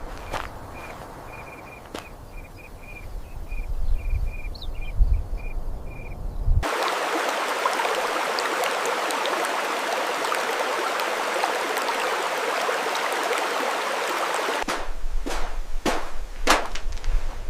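Low outdoor rumble with a short, high chirp repeated about twice a second. About six seconds in, a hard cut brings steady rushing water, like a stream or small waterfall, for about eight seconds. It cuts back to the rumble with a few sharp clicks near the end.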